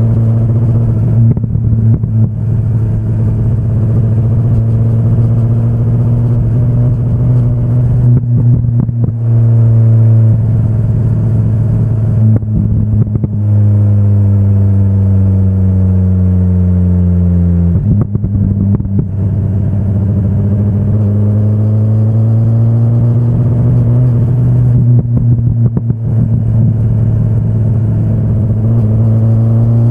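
2025 BMW S1000RR's inline-four engine under way, its note rising and falling with the throttle and breaking off briefly several times as gears change. About halfway through the revs fall steadily as it slows, then jump up sharply on a downshift, and they climb again toward the end.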